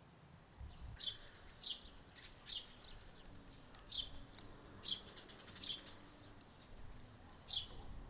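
A small bird chirping: about seven short, sharp calls, roughly one a second.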